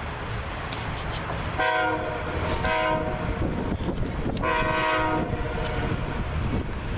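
Diesel locomotive air horn sounding over the low rumble of a passing train: two short blasts about one and a half seconds in, then a longer blast around the middle.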